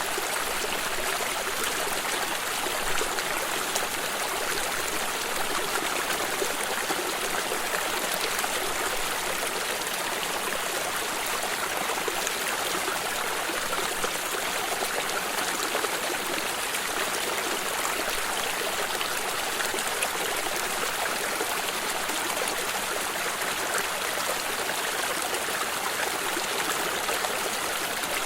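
Stream water flowing and trickling steadily, an even rushing sound with no breaks.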